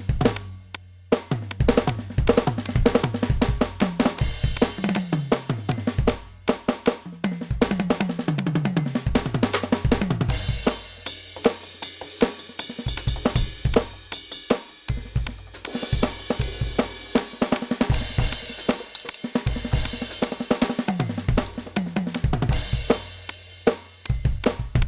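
NUX DM-8 electronic drum kit played as a full groove: kick, snare, hi-hat and cymbal crashes, with rolling tom fills that step down in pitch.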